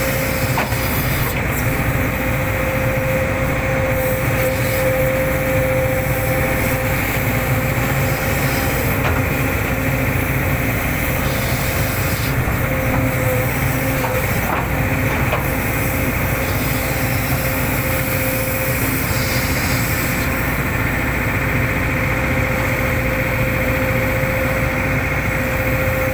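Hitachi hydraulic excavator's diesel engine running steadily under work, with a steady whine over the engine noise and a few faint clicks.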